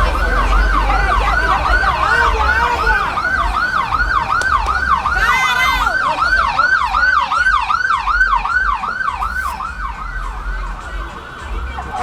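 Siren in a fast yelp, its pitch sweeping up and down about three times a second. A second overlapping siren joins briefly about halfway through, and the sound fades a little near the end.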